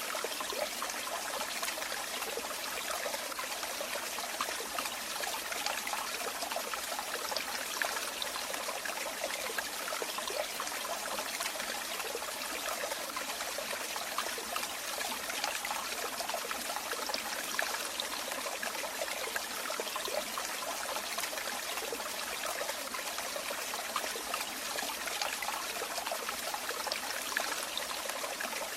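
Running water trickling and splashing steadily, a small stream or falling water with fine bubbling detail and no deep rumble.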